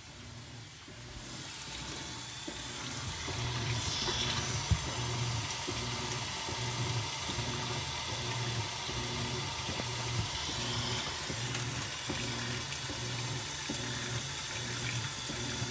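Top-load impeller washer filling with cold water through its inlet valve: a steady rush of water swelling up over the first few seconds, under a low hum that pulses about once a second and a single click partway through. The valve is heard vibrating, which is put down to using only cold water.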